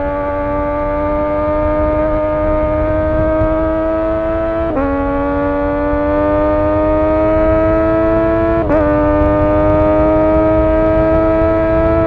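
MV Agusta F3's inline three-cylinder engine pulling hard under acceleration, its pitch climbing steadily in each gear with two upshifts, about five and nine seconds in, over wind noise.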